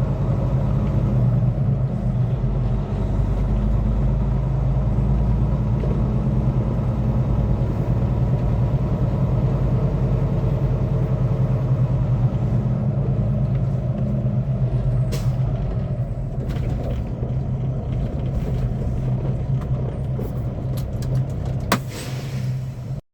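Semi-truck diesel engine running steadily, heard from inside the cab, with a low even hum and road noise. A few sharp clicks come in near the end, and the sound cuts off abruptly just before the end.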